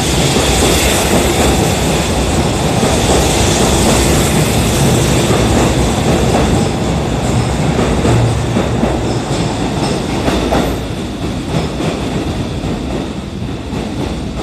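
Kintetsu 80000 series 'Hinotori' electric train running along an underground station platform, its wheels on the rails. The noise drops about ten seconds in as the last car goes by, then fades.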